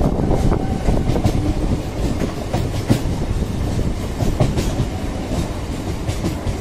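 Electric multiple unit (EMU) suburban train running, heard from an open doorway: a steady low rumble with irregular clacks of wheels over rail joints.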